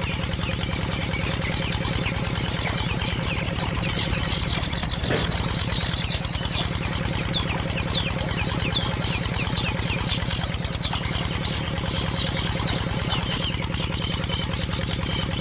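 An engine running steadily at idle with an even, rapid beat.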